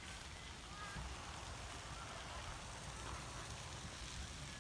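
Steady outdoor ambience of light rain, a soft even hiss over a low rumble, with a few faint short high-pitched chirps in the first two seconds.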